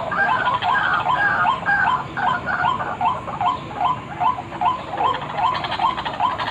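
White-breasted waterhen (ruak-ruak) lure call: short calls repeated in a steady chain, overlapping and denser in the first two seconds, then settling to about two calls a second.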